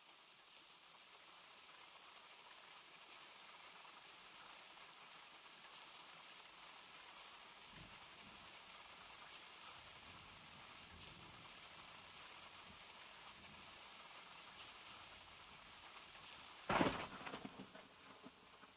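Steady rain falling, faint, with a soft low rumble in the middle. Near the end a sudden loud crack cuts through and dies away over about a second.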